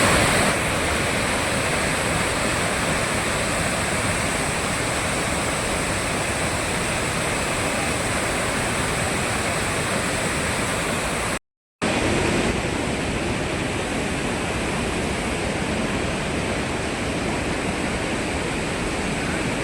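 Waterfall in monsoon spate, a steady rush of falling water, broken once by a split-second dropout a little past halfway.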